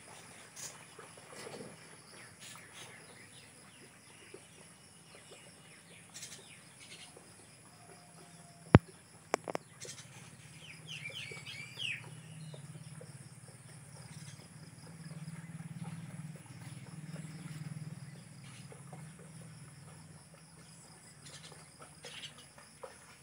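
Open-air ambience with scattered bird calls, including a quick run of chirps about eleven seconds in. A single sharp click near nine seconds is the loudest sound, and a low hum rises and fades through the middle.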